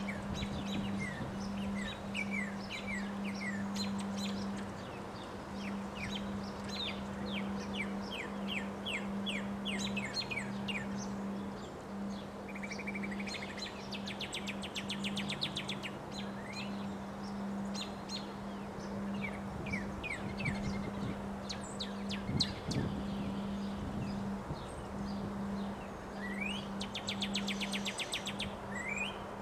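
Many small birds chirping, with short rapid trills twice, over a steady rush of wind and a low steady hum.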